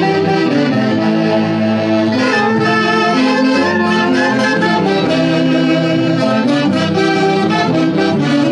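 Live music from a saxophone-led Peruvian festival orchestra: reed and brass wind instruments play a melody in held notes over a steady accompaniment.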